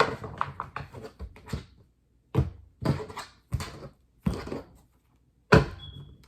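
A tarot deck handled on a table: a quick run of short clicks from cards being shuffled, then five separate knocks spaced about half a second to a second apart.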